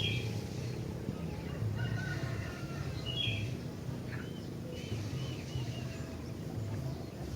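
Sooty-headed bulbul (kutilang) singing short, clear whistled phrases about once a second, over a steady low background noise.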